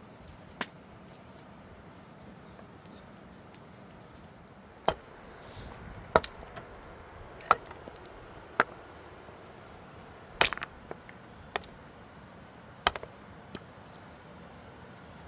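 Hard objects clinking and knocking together: about ten sharp, separate clinks at uneven intervals, over a faint steady hiss.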